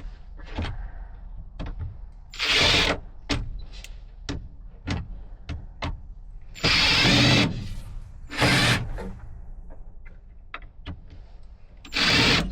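Cordless drill driving screws into wood in four short bursts, the longest about a second, with small clicks and knocks of the screws and wood being handled between them.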